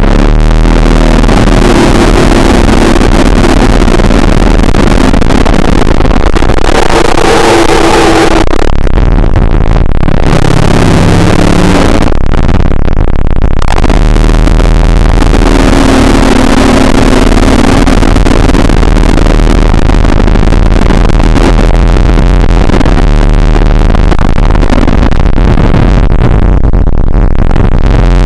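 Loud, distorted droning noise with a heavy low rumble and held tones that shift in pitch every few seconds, briefly thinning out twice midway.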